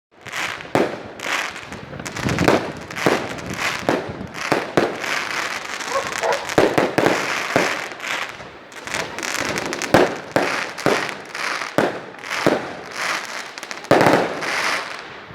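Fireworks going off in quick succession: a dense run of bangs and crackles, with the loudest reports about ten and fourteen seconds in.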